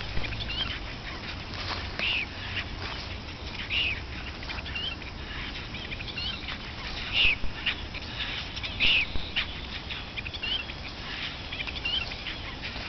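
Short, high animal calls repeating every second or two, some louder and some fainter, over a steady background hiss.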